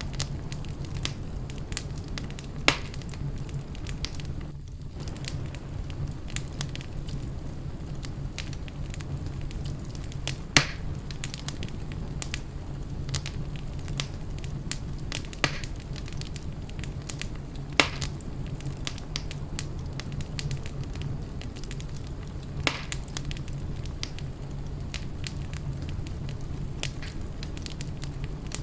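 Wood fire burning in a fireplace: a steady low rumble of flames under constant fine crackling, with about five sharper pops spread through, the loudest about ten seconds in.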